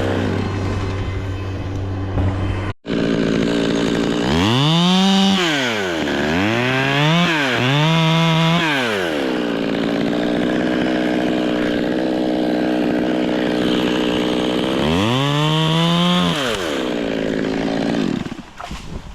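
Two-stroke chainsaw being throttled up and down: several bursts to full revs with a high whine, falling back to a lower steady running speed in between, then winding down near the end.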